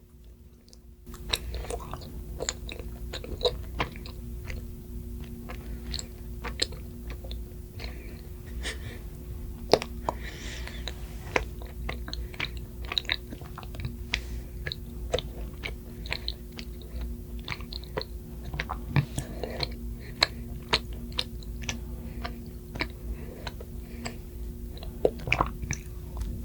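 Close-miked eating: wet chewing and biting with many quick mouth clicks and smacks, starting about a second in.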